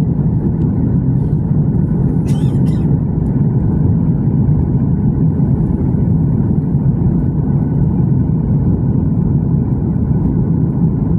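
Airliner cabin noise: the steady, loud low rumble of the engines and airflow heard inside the passenger cabin. A brief high-pitched squeak sounds twice in quick succession a little over two seconds in.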